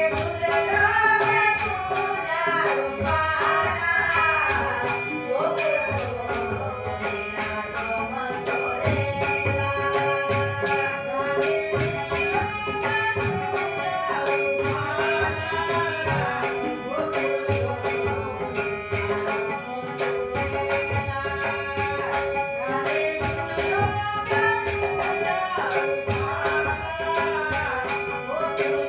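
Devotional bhajan music: harmonium with a held drone note and a bending melody over tabla strokes, with an evenly spaced metallic jingle on the beat.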